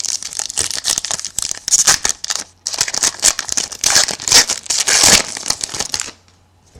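Wrapper of a football trading-card pack crinkling and tearing as it is ripped open, the crackling stopping about six seconds in.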